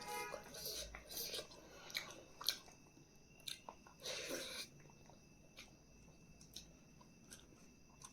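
A person chewing and biting food: scattered soft crunches and mouth clicks, with a longer crunching sound about four seconds in.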